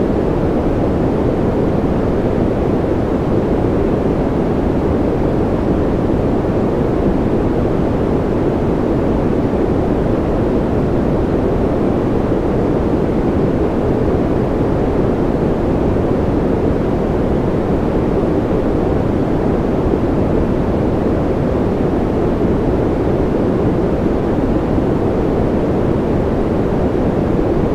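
Steady electronically generated sleep noise, sold as white noise: an unbroken, even rush that is deeper than a bright hiss, with most of its weight in the low and middle pitches.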